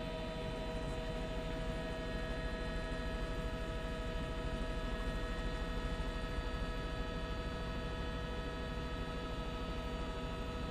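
News helicopter's engine and rotor noise, heard through the crew's intercom feed: a steady hum with several fixed whining tones over a low, rapid throb.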